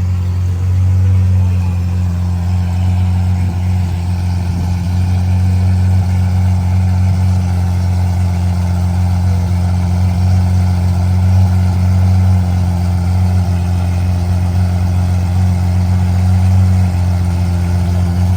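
Car engine idling steadily, a deep even hum.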